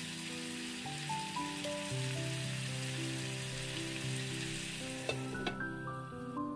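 Tomatoes, potatoes and meat patties sizzling in a cast-iron skillet while being stirred with a wooden spatula, with a couple of light knocks about five seconds in; the sizzle cuts off near the end. Soft background music plays throughout.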